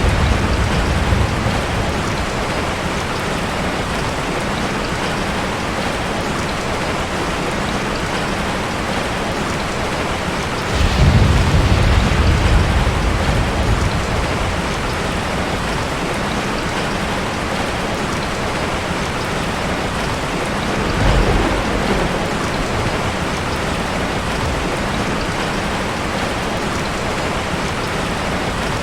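Steady rain falling, a constant hiss, with rolls of thunder: one fading out at the very start, a longer rumble about a third of the way in, and a shorter one about two-thirds of the way in.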